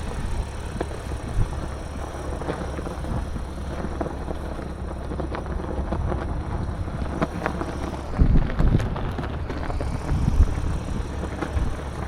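Audi S5's supercharged V6 running steadily while the car drives on a snowy road, with tyre and road noise, scattered clicks and knocks, and a cluster of louder low thumps about eight seconds in.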